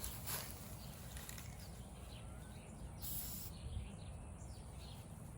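A short burst of hiss from an aerosol spray-paint can about three seconds in, over low outdoor rumble, with faint bird chirps.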